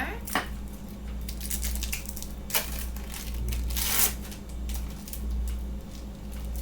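Plastic food wrapping crinkling and tearing as it is handled, with a few sharp clicks, over a steady low hum.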